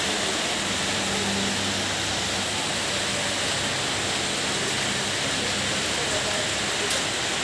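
Steady hiss of rain falling, with a faint low hum under it for the first five seconds or so.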